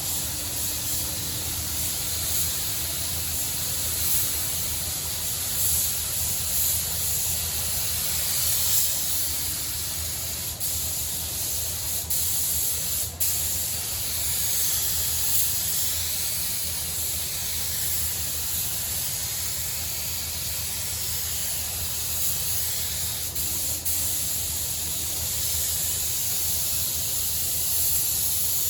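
Air spray gun hissing steadily as it lays down the second coat of paint, sprayed lightly as a loose mist coat. A low hum runs underneath, with a few faint clicks near the middle.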